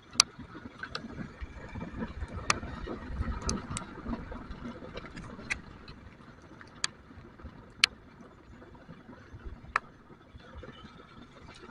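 Scattered raindrops striking the microphone as sharp, irregular ticks, about one a second, over the low rumble of a motorcycle being ridden in the wind.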